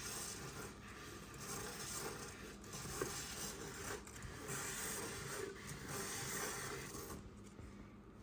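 Icing scraper rubbing and scraping over a thin crumb coat of icing on a cake, with a sharp tap about three seconds in; it eases off near the end.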